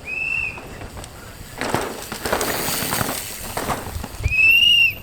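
Two high whistled notes, each rising then dipping slightly over about half a second: one at the start and a louder one near the end. Between them is a stretch of crackling, rustling noise.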